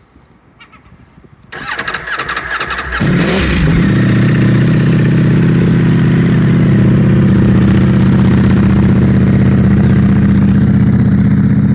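Ducati Panigale V4's V4 engine turning over on the electric starter for about a second and a half, then catching and settling into a steady idle through Akrapovic slip-on exhausts.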